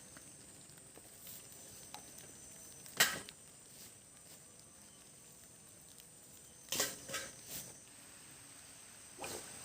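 Steady high-pitched drone of forest insects, with a few short sharp knocks or rustles about three seconds in, around seven seconds in, and near the end.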